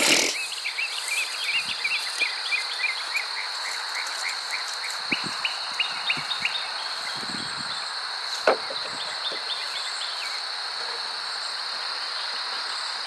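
Outdoor insect chorus: a steady high-pitched drone with rapid short chirps over it. A brief knock right at the start and a sharp click about eight and a half seconds in.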